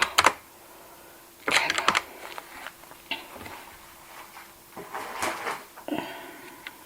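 Cash register being worked: keys clacking, with a quick run of clicks about a second and a half in, a single click near three seconds and a longer rattle of the mechanism around five seconds.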